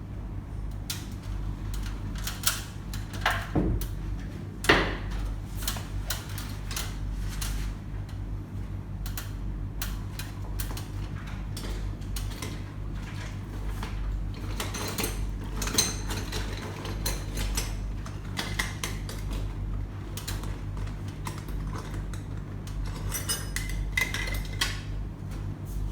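Tools and metal parts clinking and tapping on and off, with a few sharper knocks, over a steady low hum.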